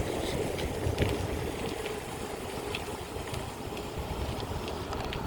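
Wind buffeting the microphone of a phone taped to a moving BMX bike, a steady low rumble, with scattered small clicks and rattles from the bike as it rolls.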